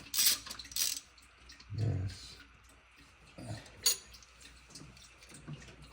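A few sharp metallic clicks from hand tools and small engine parts being handled: two near the start and one about four seconds in. Otherwise it is mostly quiet, with one short spoken word.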